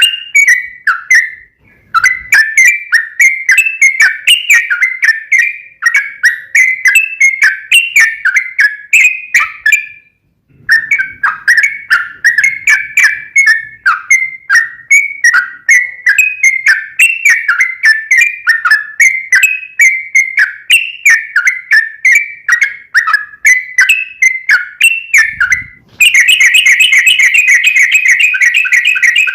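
Yellow-vented bulbul (trucukan) song: a long, unbroken run of rapid chirping notes, with brief breaks about two seconds in and about ten seconds in. Near the end it turns into a faster, denser trill.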